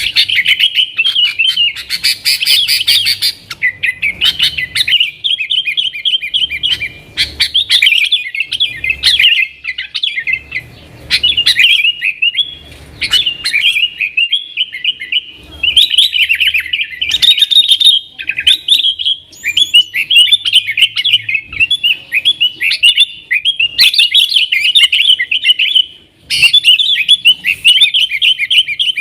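Yellow-vented bulbul (trucukan) singing loudly and nearly nonstop in fast, chattering phrases of rapid notes, with a few brief pauses.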